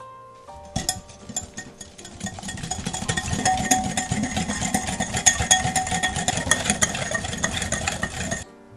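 A small electric kitchen appliance motor runs with a fast rattle, building up over the first couple of seconds and cutting off suddenly near the end.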